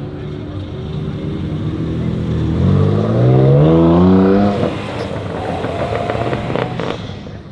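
Car engine revving up as it pulls away, its pitch climbing steadily for about two seconds before the throttle is let off, followed by a rougher stretch with a few sharp crackles near the end.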